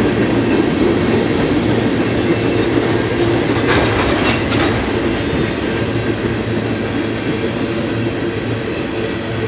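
Freight cars of a passing BNSF manifest train rolling by on the main line: steady wheel-on-rail rumble and clickety-clack, with a brief sharper metallic clatter about four seconds in.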